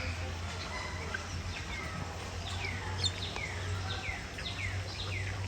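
A bird calling a run of short chirps, each sliding downward, about two to three a second, starting about a second and a half in, over a steady low hum.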